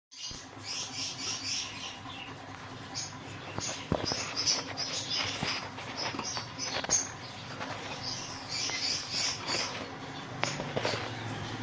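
Small caged parrots chattering: a dense run of short, high squeaky chirps with scattered sharp clicks, the loudest around four, seven and ten and a half seconds in.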